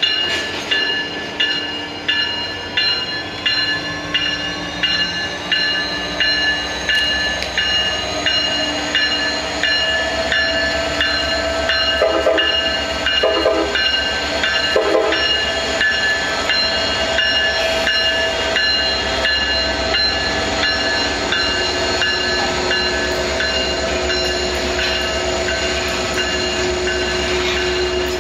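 A train rolling past with its wheels clicking over rail joints, about two clicks a second at first, merging into a steady rumble. Steady high-pitched ringing tones run over it.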